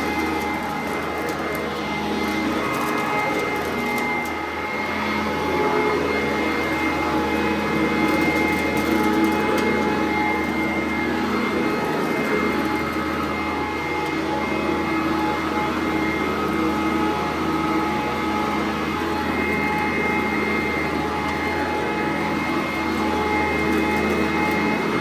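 Sanitaire SC899 upright vacuum running steadily, its motor giving a constant high whine over the rush of air, the loudness swelling and easing a little as it is worked.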